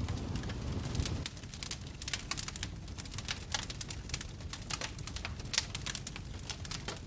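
Wood fire crackling in a fireplace: many sharp, irregular pops and snaps over a low, steady rumble of flame. The rumble is heavier in the first second, and the crackles thicken from about a second in.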